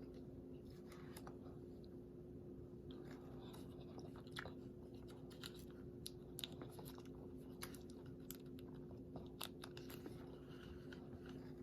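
A person chewing a mouthful of crispy fried chicken sandwich: faint, scattered crunches and small mouth clicks over a low steady hum.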